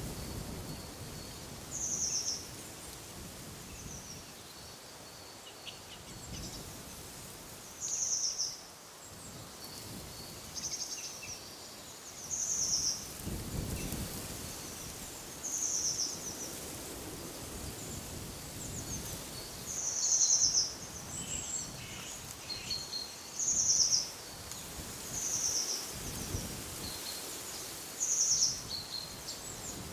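A bird repeating a short, high-pitched call phrase every two to three seconds, over wind moving through trees that swells in gusts about halfway through and again near the end.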